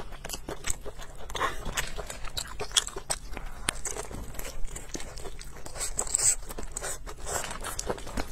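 Close-miked chewing and biting of a rolled spring pancake with a filling: many small wet mouth clicks and smacks, irregular throughout.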